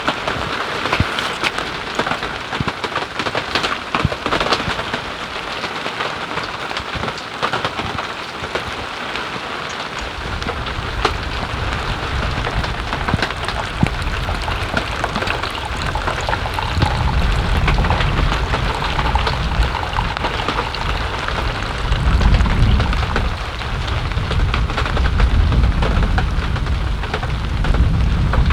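Steady rain with many sharp individual drop hits. About ten seconds in, a low rumble comes in and grows louder in the second half.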